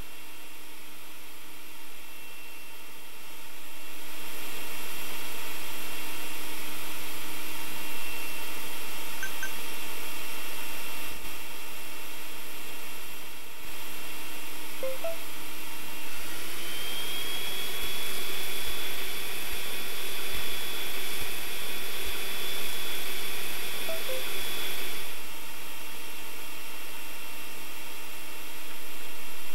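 Robot vacuum cleaner running with a steady motor whine. A few seconds in it grows louder; about halfway through, the whine glides up in pitch and holds, then drops back a few seconds before the end.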